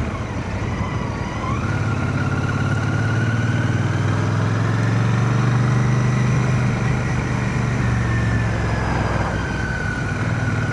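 Royal Enfield Shotgun 650's parallel-twin engine running while riding, heard from inside a full-face helmet along with wind noise. The engine note swells to a peak about halfway through, then eases back.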